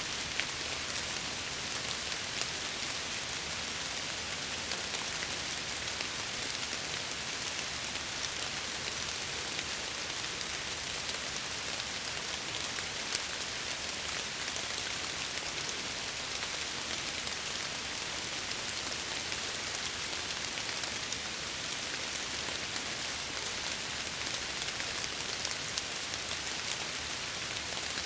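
Steady rain falling, with a dense patter of fine drops against a window.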